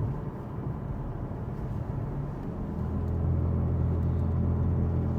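Infiniti Q60's twin-turbo V6 heard from inside the cabin while driving, with its exhaust valves closed: a steady low drone that grows a little stronger about two and a half seconds in.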